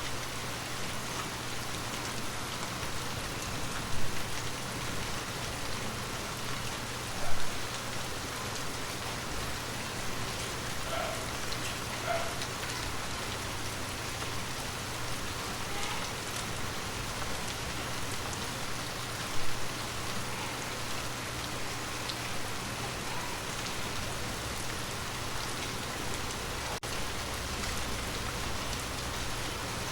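Water drops tapping on glass over a steady, even patter, with three louder drops about 4, 7 and 19 seconds in.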